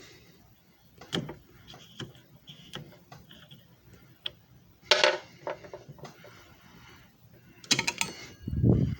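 Scattered clicks, taps and knocks from hard objects being handled, with louder clusters about five seconds in and near eight seconds, then a heavier dull thump near the end.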